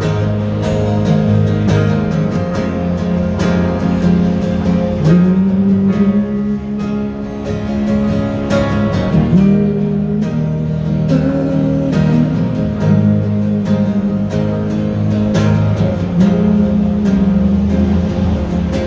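Live acoustic guitar strumming in an instrumental passage between sung lines, with sustained melodic notes that slide in pitch over the chords.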